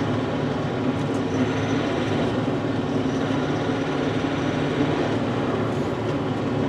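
Diesel engine of a Bobcat compact machine running steadily, warming up.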